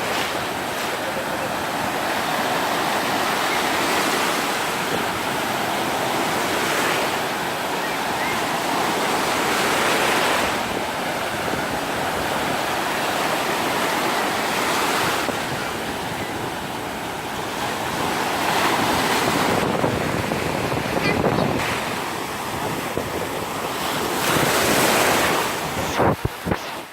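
Black Sea surf breaking on a sandy beach, the rush of the waves swelling and easing every few seconds, with wind on the microphone. A few brief bumps come near the end.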